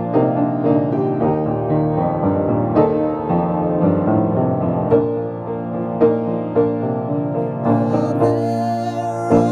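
Piano playing a slow, gentle hymn-style instrumental passage of sustained chords with a clear melody. A bright high shimmer joins the texture near the end.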